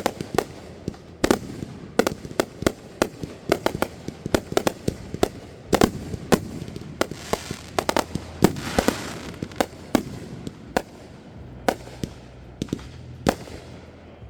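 Fireworks going off in a rapid, irregular string of sharp bangs and pops, with a stretch of crackling about halfway through.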